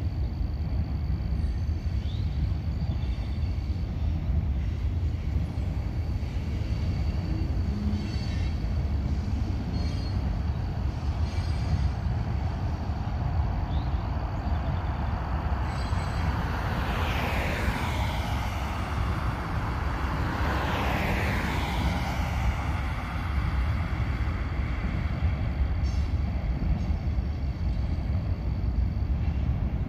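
A vehicle running with a steady low rumble, with two falling high-pitched sweeps around the middle.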